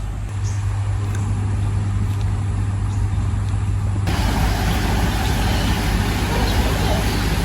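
A motor vehicle's steady low running rumble. About four seconds in, a broad rushing hiss comes in suddenly and then holds steady.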